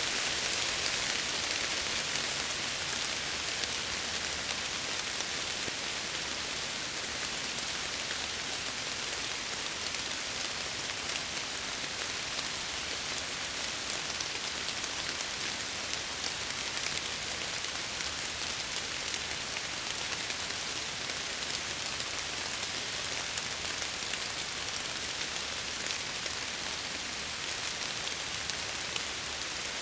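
Steady rain pattering on window glass, an even hiss with small drop ticks throughout.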